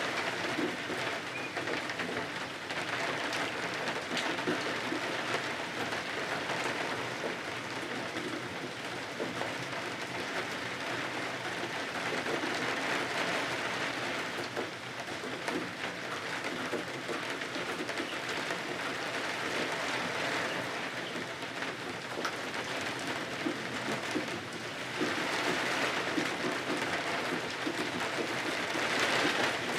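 Steady rain falling, a dense even patter that swells and eases every several seconds.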